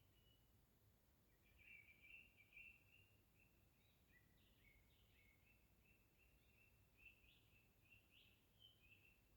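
Faint dawn birdsong in a forest: a bird sings a run of short high chirps and trills, starting about a second in and going on almost to the end, over a faint steady low rumble.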